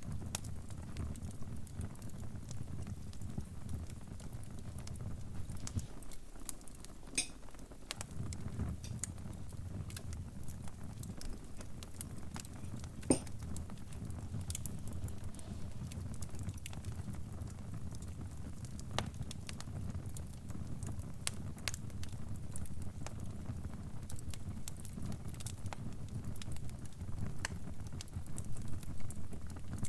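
Fire crackling, with scattered small pops over a steady low rumble and one sharper pop about thirteen seconds in.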